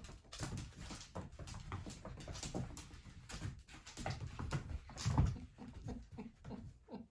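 A pet's paws scrambling, skidding and thumping on the floor in a rapid, irregular run of knocks and scuffs while it chases a laser pointer dot. The heaviest thump comes about five seconds in.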